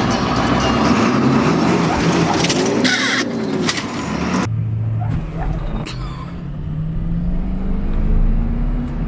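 Diesel pickup truck accelerating hard down the drag strip. About halfway through, the sound settles into a steady climb in engine pitch, with a thin turbo whistle rising above it.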